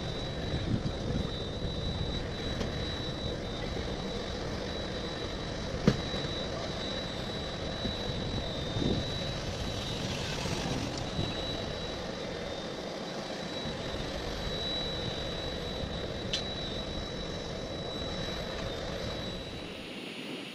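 Steady jet engine and airflow noise inside a Gulfstream G-IV's cockpit in flight, with a thin high-pitched whine running through it. A single sharp click comes about six seconds in.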